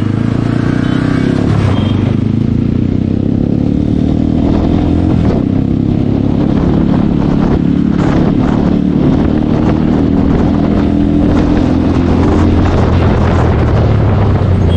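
Motorcycle engine running, a steady low note whose pitch drifts up and down a little, with rough road or wind noise over it.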